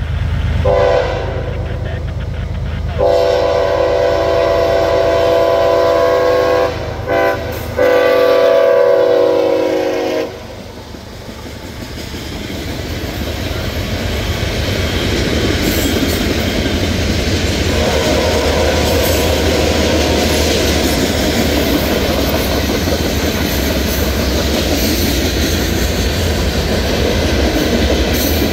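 Diesel freight-locomotive air horn sounding long, long, short, long, the grade-crossing signal. It is followed by the freight train rolling past: locomotive diesels running and hopper cars' wheels clattering on the rails. A steady wheel squeal joins in past the halfway point.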